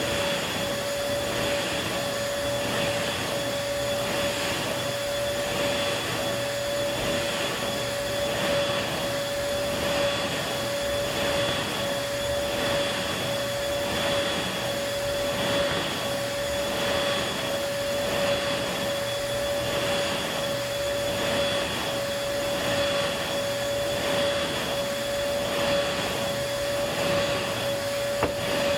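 Upright vacuum cleaner running steadily at full speed: an even motor whine with a higher whine above it, over a rushing hiss of air.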